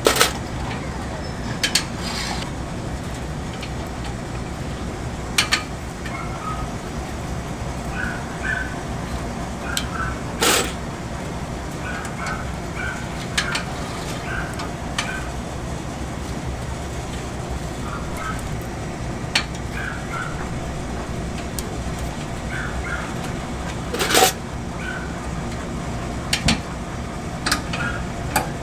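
Kitchen work: scattered clinks and knocks of utensils and pans over a steady low rumble.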